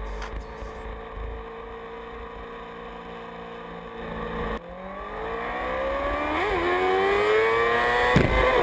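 Sportbike engine running at a steady speed, then accelerating with its pitch climbing over about three seconds. Near the end the pitch snaps down with an upshift.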